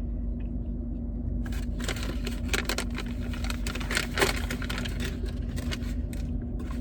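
Paper sandwich wrapping crinkling and rustling in short bursts as it is handled. Underneath is the steady hum of a car cabin with the engine running.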